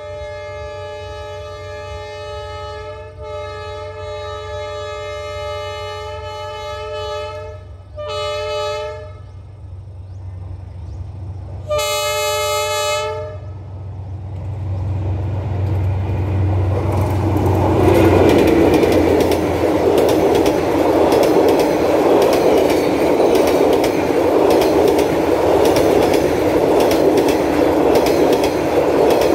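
A Vietnamese diesel passenger train's horn sounds one long chord blast and then two short blasts as the train approaches. The train then passes close by with a loud, steady rumble and clatter of wheels on the rails, which builds from about halfway through.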